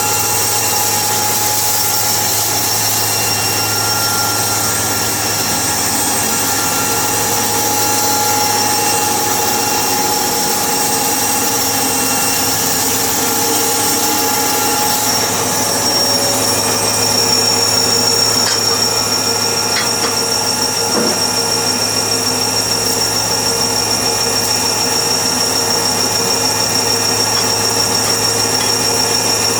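A power tool or motor-driven woodworking machine running steadily, its hum and whine holding a constant pitch.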